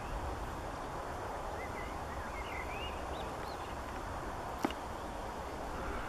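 Faint song of a small bird, a run of quick rising and falling chirps lasting about two seconds, over steady outdoor background noise with a low rumble. A single sharp click near the end.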